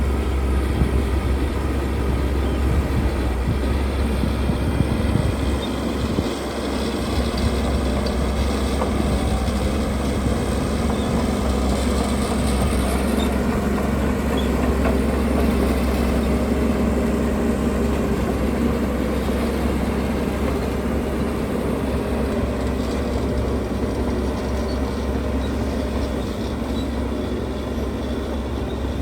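Heavy diesel earthmoving machinery running steadily under load, a deep engine rumble.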